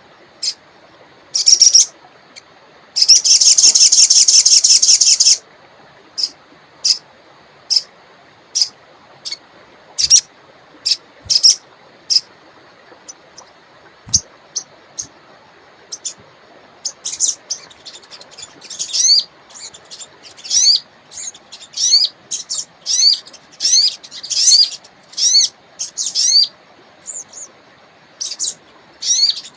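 Wild sogon songbird calling in short, high chirps spaced a second or so apart, with a loud rapid trill of about two seconds near the start and a quicker run of sweeping notes from about halfway on. A faint steady hiss lies underneath.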